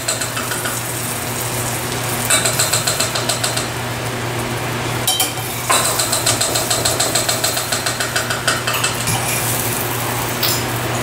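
Breaded fish fillets frying in oil in a pan, with a steady sizzle and a low hum. Two runs of rapid, evenly spaced clicking, about a second and a half and then nearly three seconds long, are the loudest sounds.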